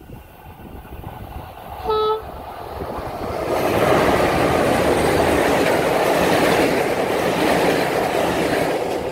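One short blast of a locomotive horn about two seconds in, then a passenger train hauled by an electric locomotive passing close at speed, its wheels rolling loudly over the rails as the locomotive and double-deck coaches go by.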